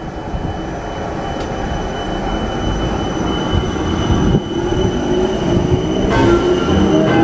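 Class 455 electric multiple unit pulling away from the platform, its traction motors whining. After a rumbling start the whine rises steadily in pitch from about halfway and grows louder as the train accelerates.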